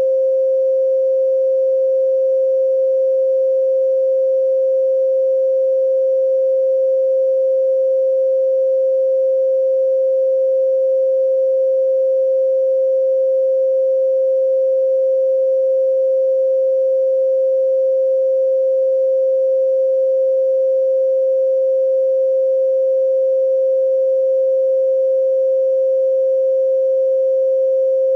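A steady pure sine tone at 528 Hz, held at an even level without a break.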